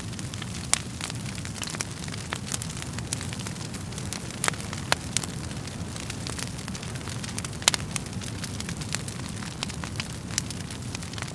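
Wood fire burning in a fireplace: a steady low rumble of flames with irregular sharp crackles and pops from the burning logs, the loudest pops about a second in and near the end.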